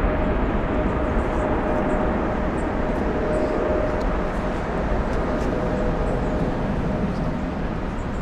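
Jet airliner engines running: a steady rush with a faint whine, slowly getting quieter.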